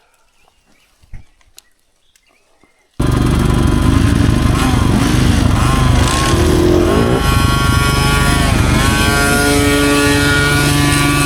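Near silence with a soft thump, then about three seconds in a small two-stroke dirt bike engine starts sounding loud and close, its pitch rising and falling as the throttle is opened and closed.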